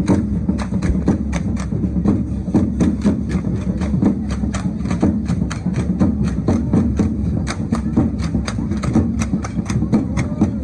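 Danza drum beating steadily, with sharp percussive clicks about three to four times a second from the dancers' rattles and steps, keeping the rhythm of the dance step.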